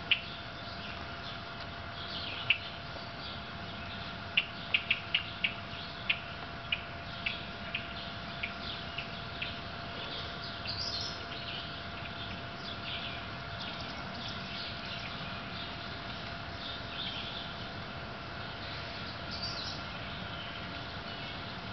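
Small birds chirping: a quick run of sharp chirps a few seconds in, slowing and fading, then scattered calls, over a steady faint hum.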